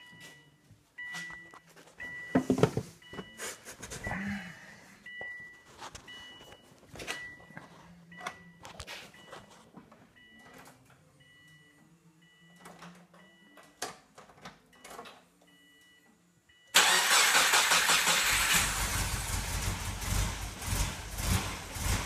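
Car engine just rebuilt, started up: for the first stretch only a dashboard chime beeps over and over with scattered clicks, then about 17 seconds in the engine fires and runs loud and noisy.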